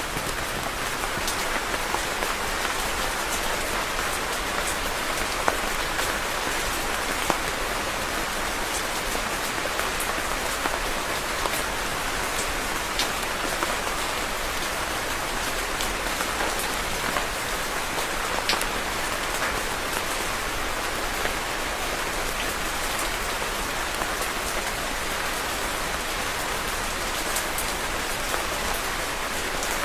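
Steady rain falling on a surface, with scattered individual drops ticking sharply through it.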